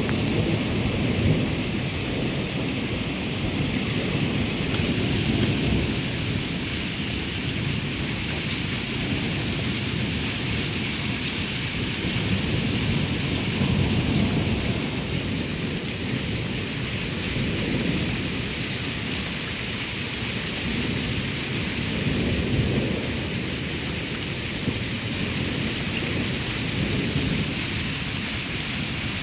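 Steady rain with low rumbles of thunder that swell and fade several times.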